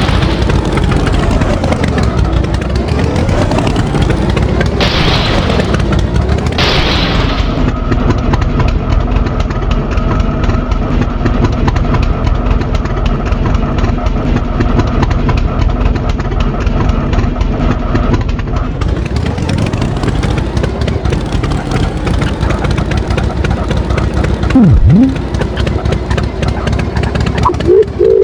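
Tractor engine running loud and steady, its pitch dipping and rising again as it revs. Near the end comes a brief louder sound with a quick drop in pitch.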